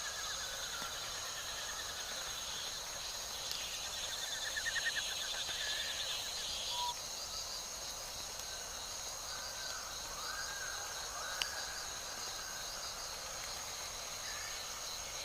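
Forest ambience of insects and birds: a steady high insect drone with a pulsed chirping underneath, and bird calls with rapid trills around four to six seconds in. A single sharp click about eleven seconds in.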